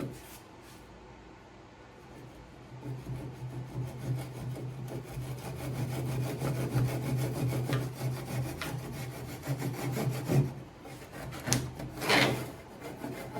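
Hand sawing through a small piece of wood for an aircraft wing, a steady rasping back-and-forth that runs for several seconds, with a short louder sound near the end.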